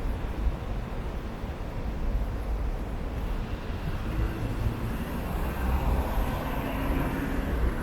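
City street traffic: a steady low rumble of passing vehicles, with a vehicle's engine tone rising and fading past in the second half.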